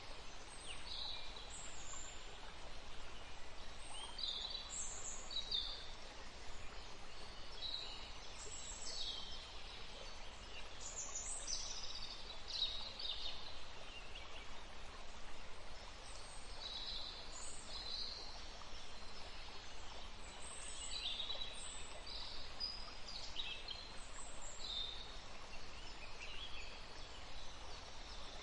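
Small songbirds calling and singing in many short, high chirps and trills throughout, over the steady rush of a forest stream.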